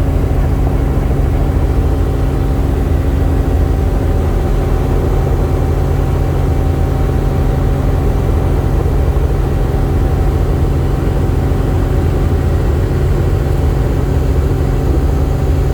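Helicopter in flight: the steady, loud drone of its rotor and engine, holding one even pitch with no change.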